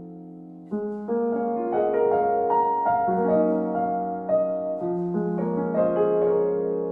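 Soft, slow instrumental piano music: a held chord fading, then a gentle melody over sustained chords from about a second in.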